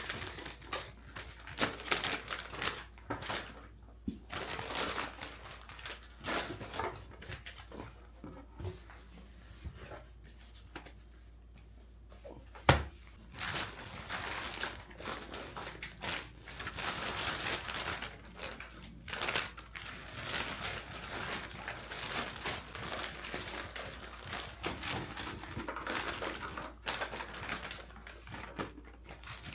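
Rustling and crinkling handling sounds, with many short clicks and one sharp knock about halfway through.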